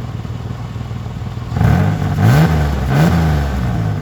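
Ford Ranger pickup engine running with its exhaust cut open, idling steadily and then revved twice about a second and a half in, the pitch climbing and dropping each time before it settles back to idle. The open pipe gives it a loud, raw exhaust note that the men liken to an exhaust leak.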